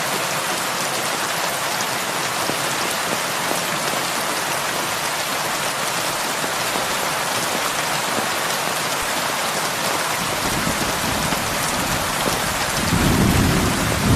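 Heavy rain falling steadily on a roof. A low rumble of thunder builds from about ten seconds in and grows loud near the end.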